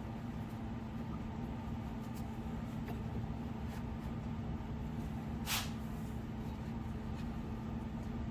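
Steady low hum with a few faint clicks and one brief scraping hiss about five and a half seconds in, as an 8.5-inch 10-bolt rear axle is worked onto soap-slicked polyurethane spring pads.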